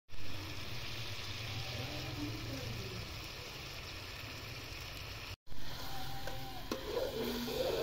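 Diced pumpkin sizzling in oil in an aluminium pot over a wood fire, stirred with a steel ladle: a steady frying hiss that breaks off briefly about five seconds in.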